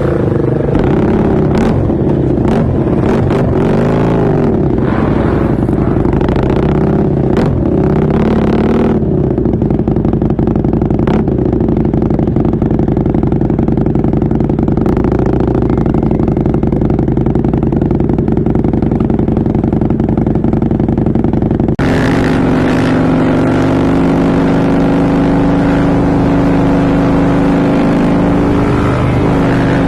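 Husqvarna Nuda 900R's parallel-twin engine running under riding, its pitch rising and falling with the throttle for the first several seconds, then holding steadier. About 22 seconds in the sound changes abruptly to a different steady engine note.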